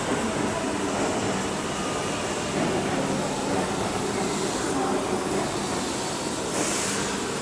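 Keihan electric train running along the station platform, a steady rumble of wheels and motors, with two short high hisses about four and a half and seven seconds in.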